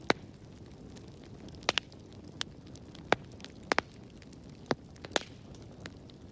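Wood fire crackling in a fireplace: a steady low rumble of flames with sharp, irregular pops and snaps, several of them loud.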